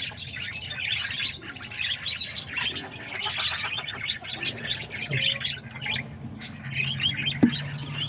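A flock of parakeets (budgerigars) chirping and chattering continuously, with a single sharp knock near the end.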